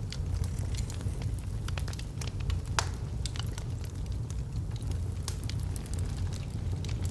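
Wood fire burning in a fireplace: a steady low rumble of the flames with scattered crackles and snaps from the logs, one sharper pop near the middle.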